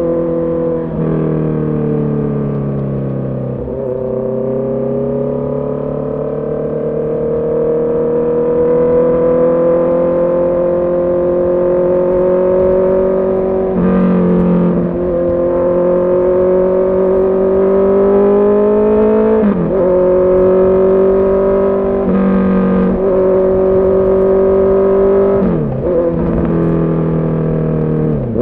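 Honda CB650R's inline-four engine pulling under way, its pitch climbing slowly and then dropping briefly about six times as gears change.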